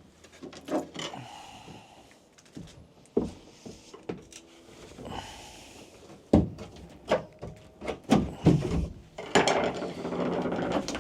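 A section of boat floor being pried and ripped up by hand: irregular knocks and thuds of wood, with short creaks, the loudest knocks about six and a half and eight to nine seconds in, and a stretch of scraping near the end.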